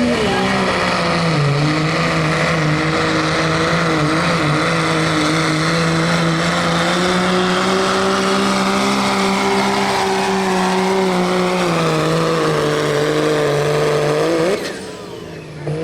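Unlimited-class diesel pulling truck's engine running hard and steady through a pull. The pitch dips slightly early on and slowly recovers, then falls, and the sound drops off sharply about a second before the end.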